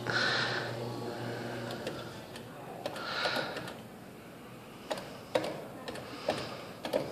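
Claw crane machine at work: a low motor hum for the first couple of seconds, then a run of sharp mechanical clicks in the second half.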